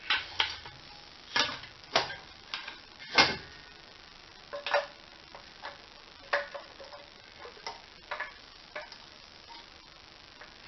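Irregular metallic clicks and clanks of metal parts and hand tools being handled, the loudest about three seconds in.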